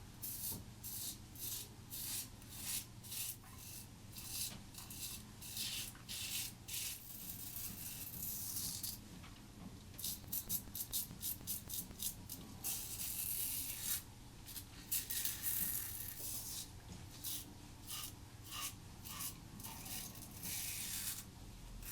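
Merkur 30C double-edge safety razor with a Gillette Silver Blue blade scraping through lathered stubble in short strokes one after another, on a first pass with the grain.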